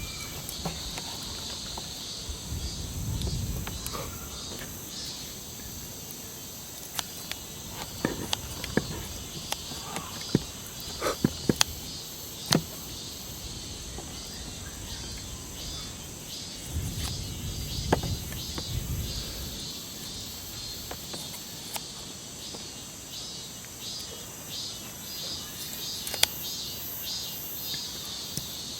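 Insects chirping in a steady chorus, with scattered sharp clicks and knocks, bunched together about a third of the way in and once more near the end.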